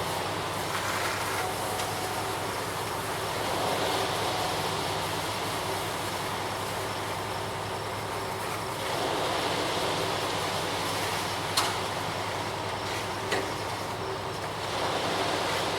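Ready-mix concrete truck running steadily with a low, constant hum, swelling a little now and then, with two sharp knocks near the end.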